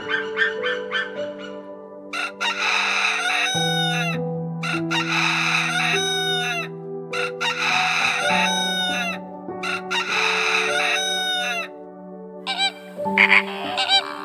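Loud bird calls: four long calls of about a second and a half each, spaced roughly a second apart, with a shorter call near the end, over background music with sustained notes.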